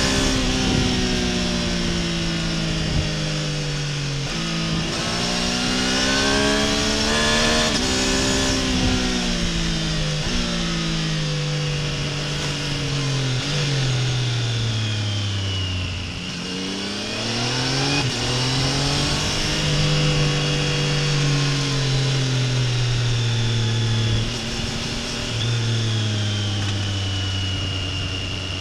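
Triumph Tiger Sport 800's three-cylinder engine and exhaust under way. It pulls up through the gears with the pitch climbing and dropping sharply at each quick upshift, winds down about halfway through, then picks up again and holds a fairly steady pitch.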